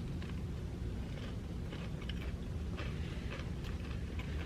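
A person chewing food close to the microphone, with faint, irregular crunches.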